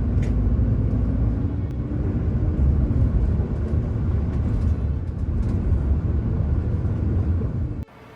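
Steady low rumble of a vehicle engine running, with a faint held tone that dips slightly in pitch about three seconds in; it cuts off abruptly near the end.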